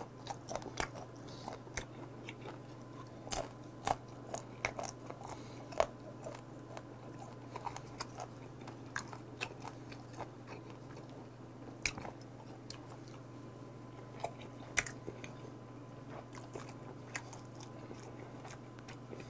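Close-miked chewing of roasted dried squid mouths, with sharp, irregular crunches.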